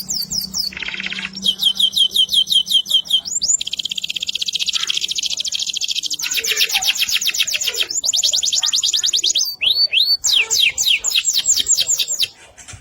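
Domestic canary singing a loud, continuous song of fast trills: each phrase is a rapid run of repeated high notes, and the phrase changes every second or two. A pair of short rising whistles comes near the end, and then the song breaks off.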